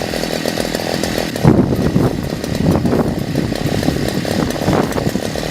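Two-stroke engine of a Hammer Flex MTB60 earth auger running, its speed unsteady, with a louder surge about a second and a half in, while the carburettor's main fuel screw is turned in to lean the mixture and bring the revs down.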